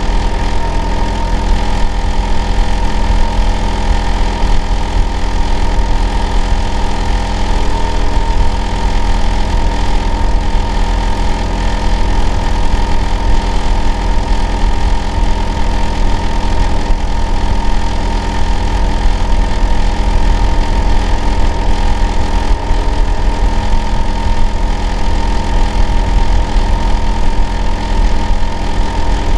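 Hitachi air-conditioner outdoor unit running steadily: a heavy low hum with a steady whine on top, unchanging throughout. The noise is what the neighbour complains of as loud and abnormal.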